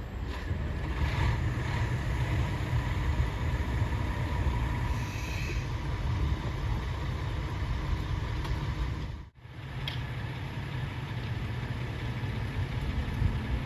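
Steady low rumble of a diesel train engine running, with a momentary dropout about nine seconds in.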